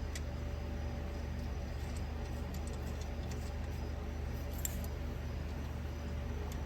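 A few faint, light metal clicks from small hardware and hand tools being handled, over a steady low hum.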